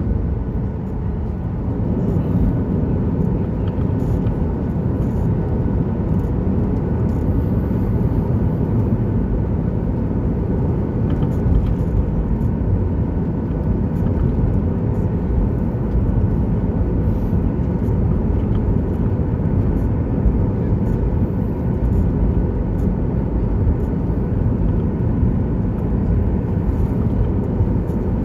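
Boeing 737-900ER cabin noise heard from inside the cabin: a steady low rumble of the jet's CFM56-7B engines and airflow, with a faint steady whine above it.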